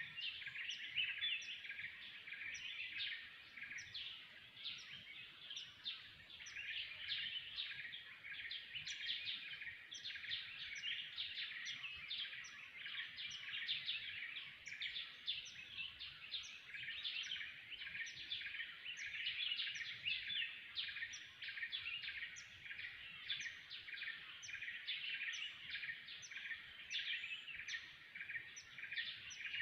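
Forest birds calling together in a dense, unbroken chorus of chirps, with one high note repeating over and over.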